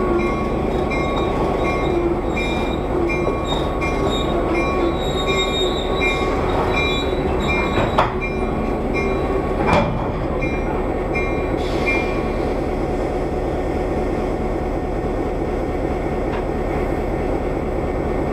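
Passenger train cars rolling slowly and coming to a stop: a high-pitched squeal pulses about three times a second over a steady low rumble, with two sharp clanks a couple of seconds apart; the squeal ends as the train halts, leaving the steady rumble.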